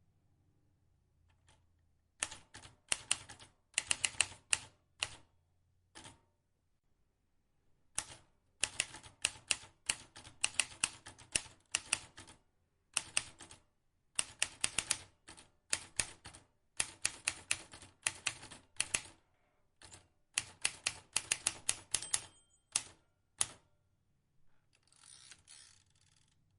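Vintage typewriter keys struck in quick bursts of clicks, with short pauses between runs. Near the end comes a softer, drawn-out noise.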